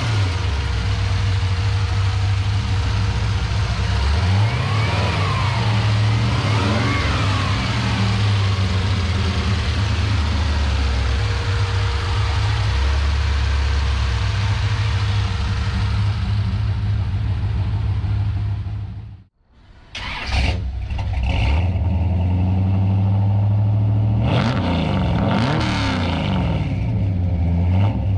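Fuel-injected 383 cubic inch GM small-block V8 crate engine running, with the throttle blipped so the revs rise and fall a couple of times. The sound cuts out for a moment about two-thirds of the way through, then the engine runs again and is revved several more times near the end.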